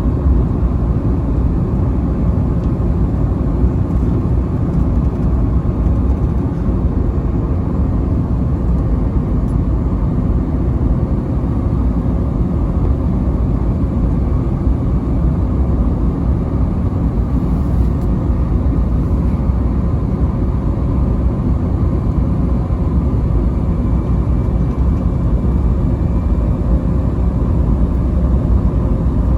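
Steady cabin noise inside an Airbus A321neo: a loud, even low rumble of engines and airflow with a few faint steady tones above it.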